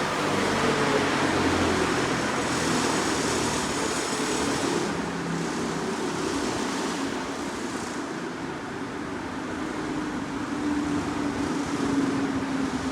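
Touchless LaserWash G5 car wash running in its final stage, heard from inside the car: a steady rushing of air and water noise with a faint whine that slowly falls in pitch.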